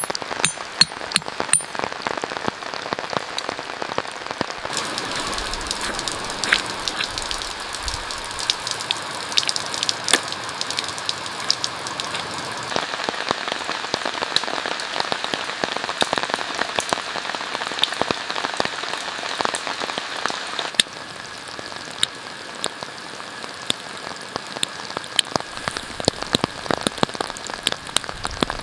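Steady rainfall, with many separate drops striking close by; the sound shifts a few times, about 5, 13 and 21 seconds in.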